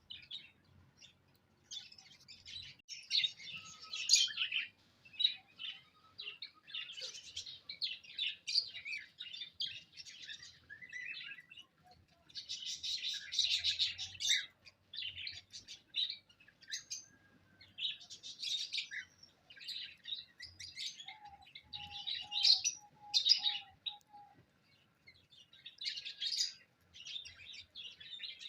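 Small cage birds chirping and twittering busily in overlapping bursts, with a short run of lower repeated notes about three-quarters of the way through.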